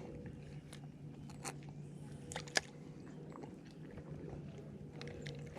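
Faint, irregular clicking and scraping of a fishing rod and reel being worked to pull a hooked fish free, with a few sharper clicks about one and a half to two and a half seconds in.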